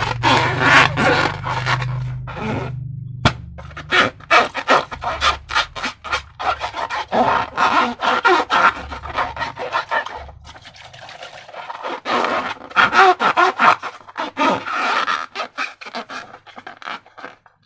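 Slime being squished and worked by hand, making dense, sticky, wet crackling and clicking in bursts, with a lull about ten seconds in.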